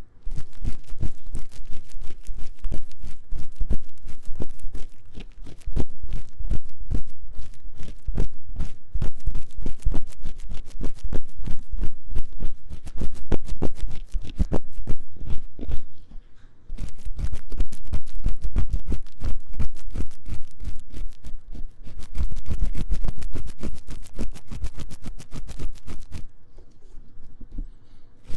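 Ear-cleaning ASMR scratching: a tool rubs fast and hard inside the silicone ear of a 3Dio binaural microphone, making dense, rapid scraping strokes. The strokes pause briefly about two-thirds of the way through and ease off near the end.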